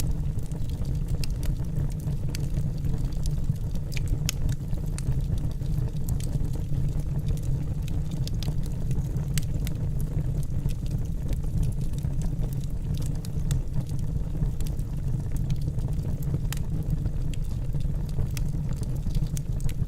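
Wood fire burning in a fireplace: a steady low rumble of the flames, with sharp crackles and pops from the burning logs scattered irregularly throughout.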